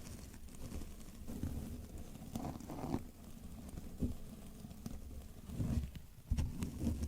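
Close-miked soft, irregular tapping and handling noises over a low rumble, with small clusters of knocks scattered through.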